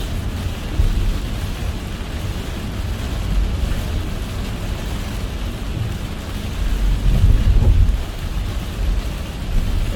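A car driving in heavy rain: steady low rumble of tyres on the wet road under an even hiss of rain, the rumble swelling louder for about a second around seven seconds in.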